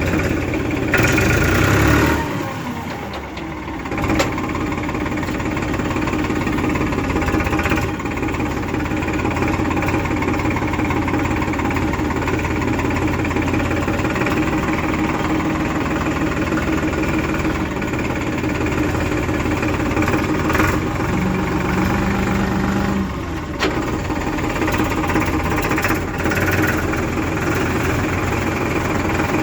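Diesel engine running steadily, with a dip in level about two seconds in and a pickup near four seconds. A brief steady tone sounds a little past twenty seconds.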